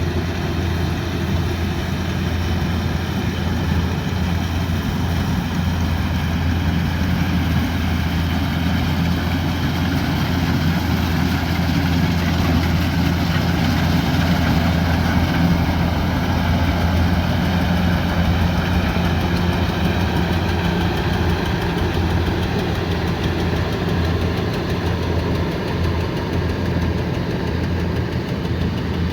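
Kubota combine harvester's diesel engine running steadily under load, a constant low drone with an even haze of machinery noise over it, swelling slightly about halfway through.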